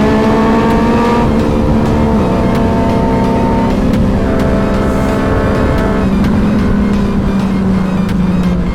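Sport motorcycle engine and exhaust pulling hard on the road, climbing in pitch and shifting up through the gears a few times, with wind rush underneath.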